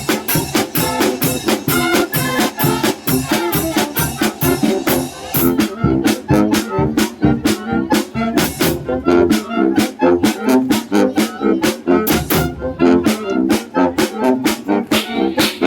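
Symphonic wind band playing a polka: brass over a quick, even beat on drums and cymbals. The cymbals and snare thin out about five seconds in, leaving mostly the brass and lighter percussion.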